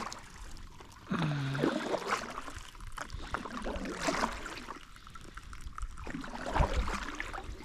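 Paddles dipping and splashing in the river as a small boat is paddled along, about one stroke a second, with water trickling off the blades. A short voice sound about a second in.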